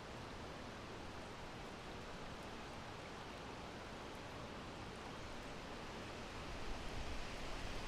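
Steady wind blowing, an even rushing noise, with a deeper low rumble swelling in about six and a half seconds in as a gust builds.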